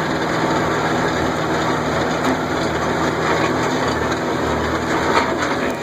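Tractor engine running steadily while driving, with rattling and a few knocks from the machine as it moves along a rough ranch road.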